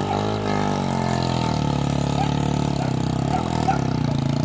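Motor vehicle engine running, its pitch dropping early on, then holding and bending again near the end.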